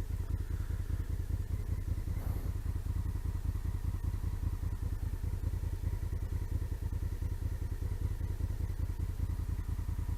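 Honda CRF single-cylinder motorcycle engine idling steadily, its exhaust pulsing evenly.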